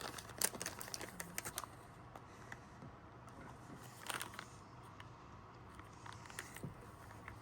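A plastic gummy-candy pouch being handled, with faint crinkling and light clicks in the first second and a half and again briefly about four seconds in.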